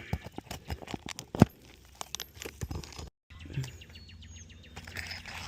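Roof shingles being handled in a repair, giving many sharp clicks, cracks and crinkles, with one loud snap about a second and a half in. After a brief break near the middle, a steady low hum runs under lighter ticks.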